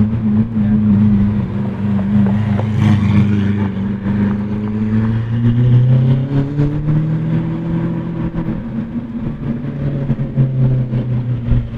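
Lamborghini Aventador SVJ's V12 with an aftermarket Deutsch Tech exhaust running at low revs, a deep, steady engine note. About halfway through, the pitch climbs gently for a few seconds, then drops back.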